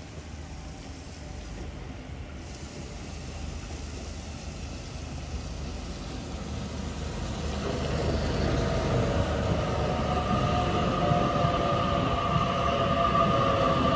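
A Sydney Trains Waratah double-deck electric train approaching and running in alongside the platform. Its rumble on the track grows louder from about halfway in, joined by a steady, high-pitched electric motor whine as it draws close.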